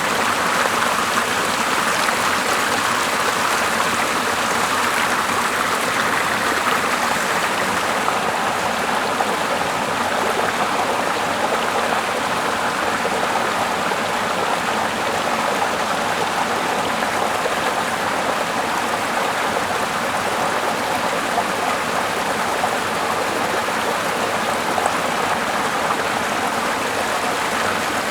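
Small river flowing steadily over rocks, with the rush of a small waterfall.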